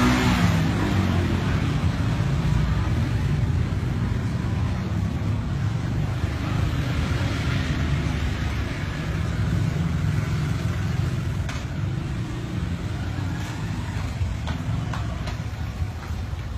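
Steady low rumble of background road traffic, loudest at the start and easing off slowly, with a few faint clicks in the second half.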